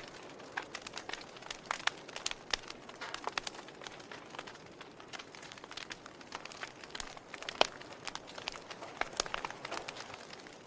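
Wood fire burning with irregular crackles and sharp pops over a soft steady hiss.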